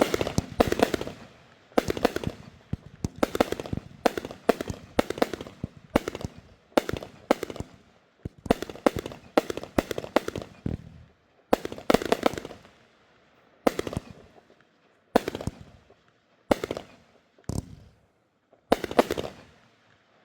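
Consumer fireworks going off: a rapid run of sharp bangs and crackles that thins out after about eleven seconds to single bursts every second or so.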